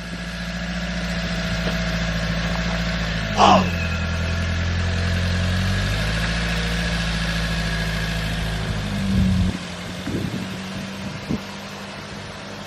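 A vehicle engine starts up and runs steadily at idle, with a short loud sound that falls in pitch about three and a half seconds in. The deepest part of the engine sound stops about nine and a half seconds in.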